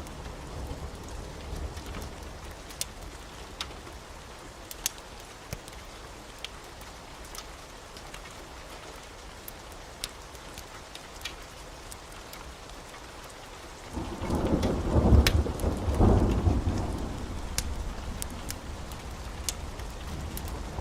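Steady heavy rain with scattered sharp ticks of drops, and a roll of thunder that starts about two thirds of the way in, swells to its loudest a second or two later and slowly rumbles away.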